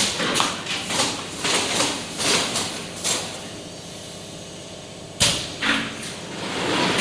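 Screen-printing machine being worked by hand: a run of short scraping swipes, a lull, then a sharp clack about five seconds in and another just after, followed by a longer swish.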